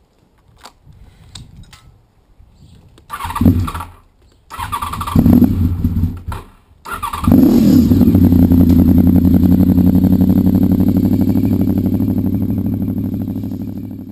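Motorcycle engine being started: a few faint clicks, then two short bursts of engine noise, then about seven seconds in it catches, the revs dropping into a steady pulsing run that slowly fades out near the end.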